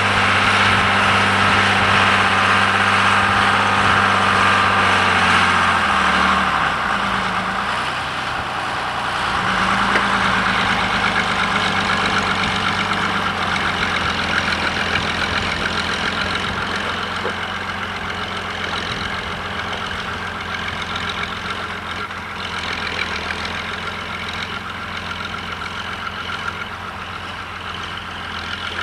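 John Deere 3350 tractor's diesel engine running steadily while ploughing. Its note dips and shifts about six seconds in, then settles again and slowly fades.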